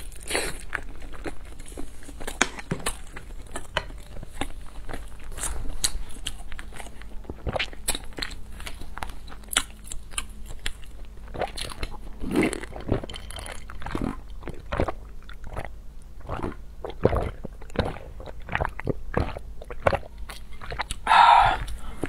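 Close-miked eating sounds: a woman chewing century egg, with many small wet clicks and smacks of the mouth. About halfway through come a few gulps as she drinks from a large glass bowl, and near the end a short, louder mouth sound.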